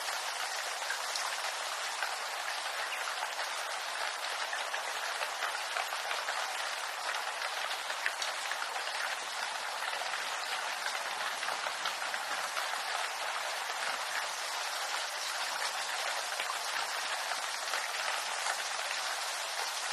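Steady rain falling on bamboo foliage: a dense, even patter of countless small drops ticking on leaves, with no lulls.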